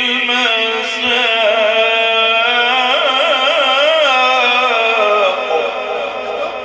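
A man's voice reciting the Quran in the melodic mujawwad style, drawing out a long ornamented note that winds up and down in pitch and eases off about five seconds in.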